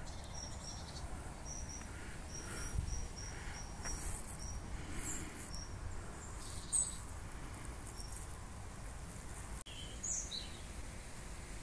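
Outdoor ambience: a small bird repeats a short high call two or three times a second for the first few seconds, and another brief chirping call comes near the end. Under it run a steady low rumble and scattered scuffs of footsteps on a leaf-covered path.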